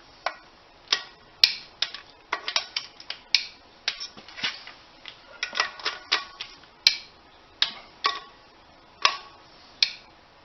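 Hand tools clicking and clinking against metal parts during clutch bolt work: sharp, irregular metallic ticks, sometimes two or three in quick succession, the loudest about a second and a half in and near the seven-second mark.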